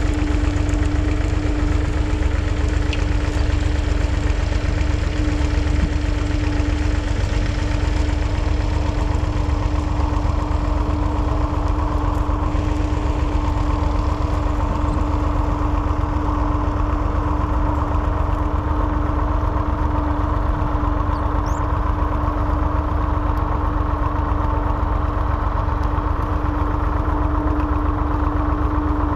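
The 2.7-litre three-cylinder diesel engine of a 1969 David Brown 780 tractor running steadily at a constant engine speed.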